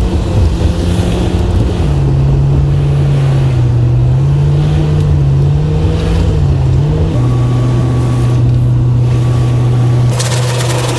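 Plow truck's engine running while driving, its pitch rising and falling with speed and then holding steady. A rapid, even ticking starts near the end.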